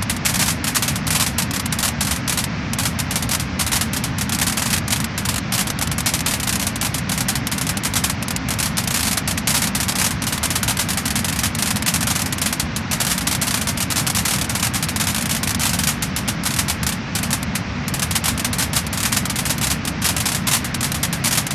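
Wood fire crackling and popping: a steady hiss thick with rapid, irregular snaps.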